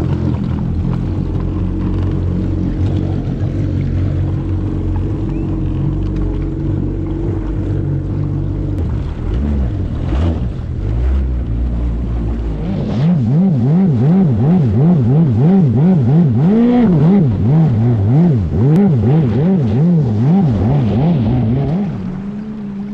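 Fast Powersports F16 stand-up jet ski engine running at a steady speed. About halfway through, the engine note starts rising and falling quickly over and over, about one and a half times a second, then settles back to a steady note near the end.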